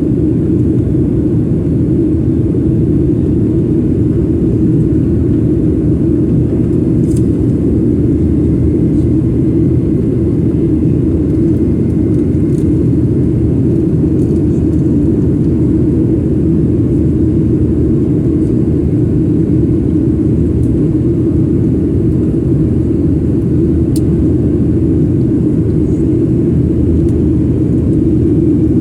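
Steady, loud roar of a jet airliner heard from inside the passenger cabin: engine and airflow noise, deep and unbroken.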